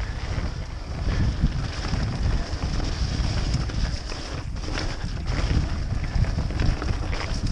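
Wind rumbling on a GoPro action camera's microphone as a 2006 Specialized Stumpjumper FSR full-suspension mountain bike rolls along a wet dirt trail, with tyre noise and a few short clicks and rattles from the bike.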